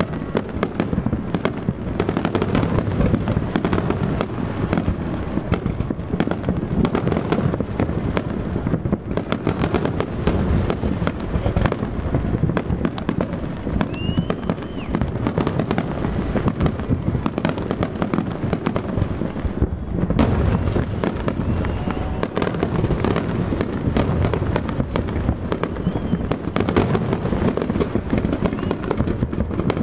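Aerial fireworks in a dense, near-continuous barrage of overlapping booms and crackles with no gaps between bursts, the pace of a fireworks grand finale.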